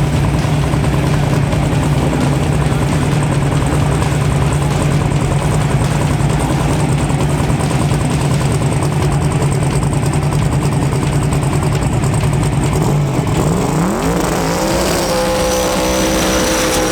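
Drag racing car engine running loudly and steadily. About thirteen seconds in, an engine revs up sharply, holds at high revs with a thin high whistle over it, and drops off near the end.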